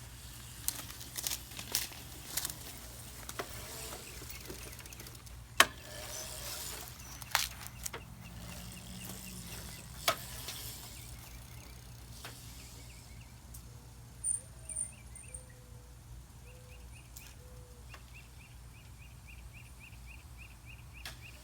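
Outdoor background with a steady low rumble, scattered sharp knocks and clicks, the loudest about five seconds in, and faint bird chirps repeating quickly in the second half.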